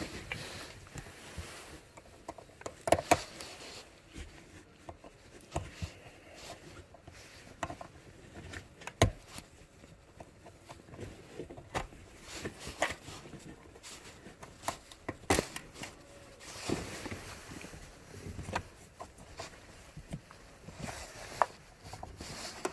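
Irregular sharp plastic clicks and knocks, with faint handling noise between them, as the wiring connectors under an Audi A3 driver's seat are unclipped and pulled off one at a time.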